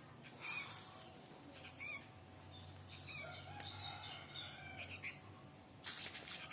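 Young sooty-headed bulbul giving two short, harsh calls, faint, followed by softer sounds and a brief rustle near the end.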